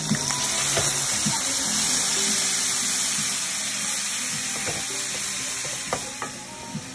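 Food sizzling in a hot frying pan, with a few sharp knocks of a utensil against the pan as it is stirred.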